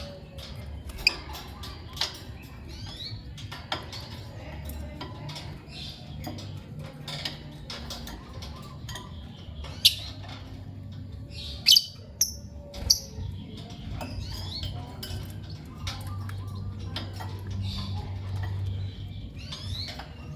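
Lovebirds chirping: short, sharp, high-pitched calls scattered throughout, the loudest a cluster from about ten to thirteen seconds in, over a steady low hum.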